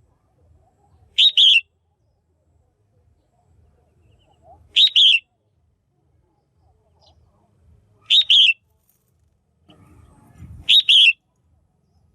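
Female red-whiskered bulbul calling: a short, loud double-noted chirp, repeated four times about every three and a half seconds. It is the kind of female call used to stir up male bulbuls. A faint low rumble comes under the last call.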